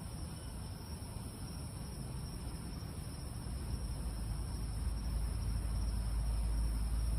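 Steady night chorus of crickets or other insects, a continuous high-pitched drone. A low rumble builds underneath from about halfway through and grows louder toward the end.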